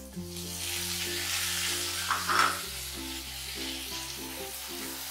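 Onions and freshly added tomato slices sizzling in hot oil in a nonstick frying pan, while a spatula stirs them. There is a louder stroke about two seconds in.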